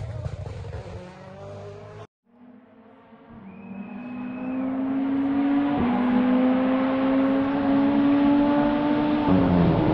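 A rally car's engine fading away, then after a cut another rally car approaching flat out, the engine note climbing steadily and getting louder, dipping briefly at a gear change about six seconds in. Near the end the engine note drops sharply.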